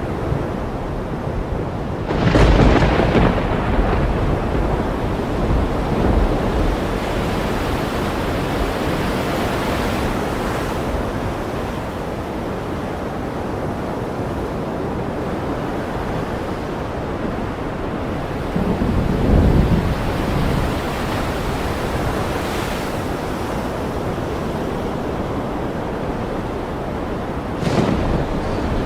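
Ocean surf washing steadily under a thunderstorm. Sharp thunder cracks come about two seconds in and again near the end, and a low rumble of thunder swells just before the two-thirds mark.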